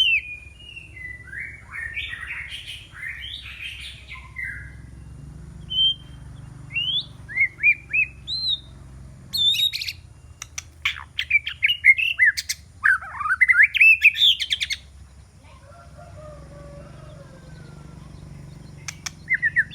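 White-rumped shama singing: varied whistled and warbled phrases mixed with sharp clicks, busiest in the middle. Near the end only a faint, softer warble remains.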